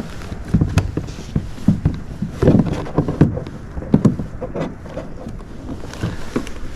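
Irregular knocks and thuds against a small fishing boat or kayak, over a steady rush of wind on the microphone.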